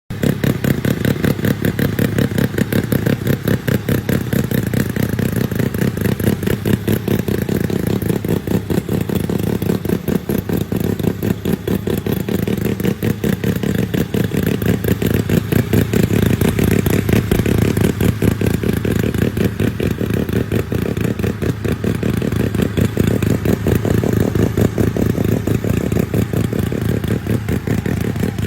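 A mini bike's rotary engine running steadily, with a rapid, even pulse.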